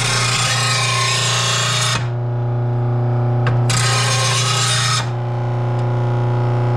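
Electric disc blade sharpener running with a lawn mower blade held to its abrasive disc. The motor hums steadily under a grinding hiss that lasts about two seconds, returns in a short touch, then comes back for the last couple of seconds. The motor sound cuts off right at the end.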